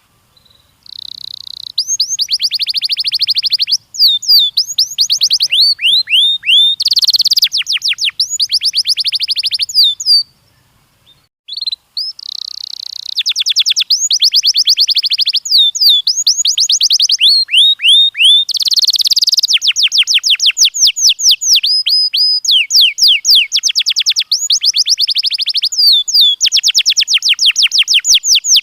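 Domestic canary singing: long phrases of fast trills and rapidly repeated swept notes, with a short pause about ten seconds in before the song resumes.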